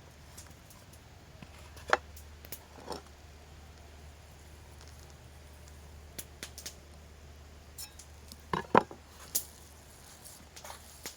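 Scattered clicks and light knocks of cooking utensils and food being handled during preparation, a few seconds apart, with the loudest pair about nine seconds in, over a faint steady low hum.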